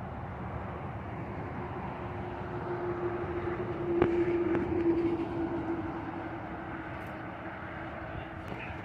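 Heavy truck running on the road: steady engine and road noise with a hum that swells around the middle and then eases off, and a single click near the middle.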